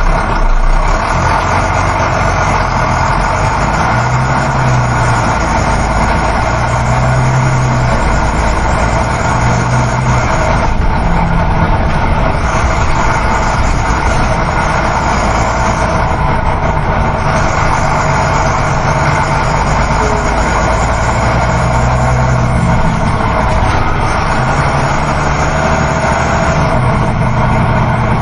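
Steady engine hum and road noise of a moving coach bus, heard inside the passenger cabin. The low engine note shifts slightly in pitch from time to time.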